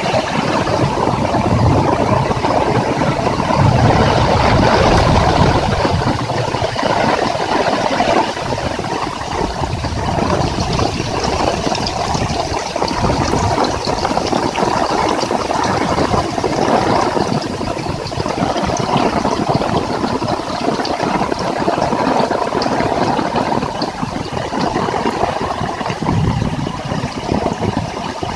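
Heavy rain pouring steadily, a dense patter of countless drops. Gusts of wind add a low rumble in the first several seconds and again near the end.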